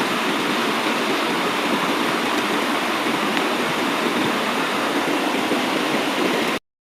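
Steady rushing of river water, even and unbroken, which cuts off abruptly near the end.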